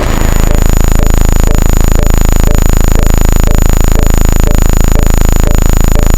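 Loud, steady electronic buzz, a harsh rapid pulsing heavy in the bass, with a faint blip about twice a second.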